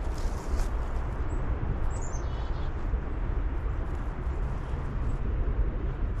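A few high bird chirps, including a quick run of notes falling in pitch about two seconds in, over a steady low rumble.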